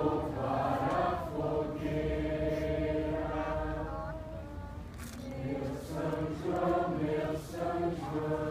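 A group of voices singing a slow song together in long held notes.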